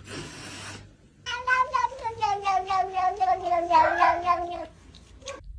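A domestic cat giving one long drawn-out yowl of about three seconds, wavering quickly and slowly falling in pitch.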